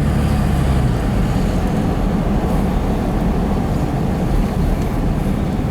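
Truck driving: a steady engine and road noise, the low engine hum easing off about a second in.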